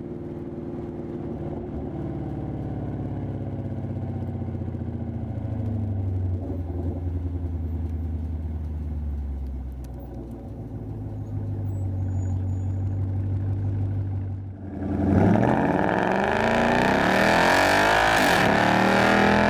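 Ford Mustang GT's 5.0-litre V8 running at low, fairly steady revs, its pitch drifting gently up and down. About fifteen seconds in it gives way suddenly to louder music.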